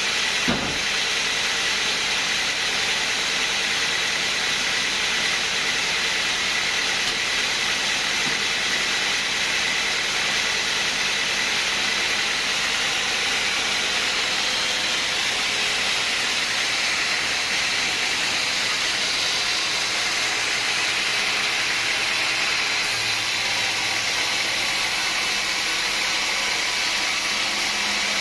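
Sawmill machinery running steadily: an even, high-pitched rushing noise with a single knock about half a second in.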